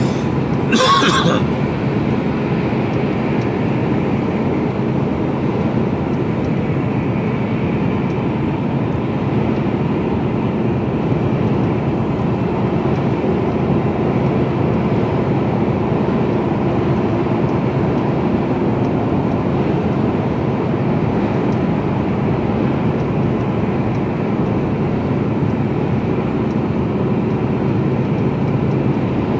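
Mercedes-Benz Actros truck cruising steadily, its engine and road noise heard from inside the cab as an even drone with a steady low hum. A brief sharp noise about a second in.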